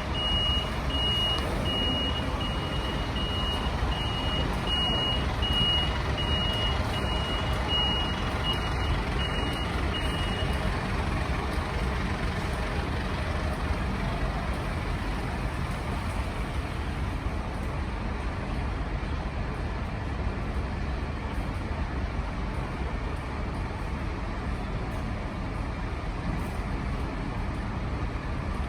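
A vehicle's reversing alarm beeping at a steady pace, stopping about ten seconds in, over a steady low rumble of engine and street noise.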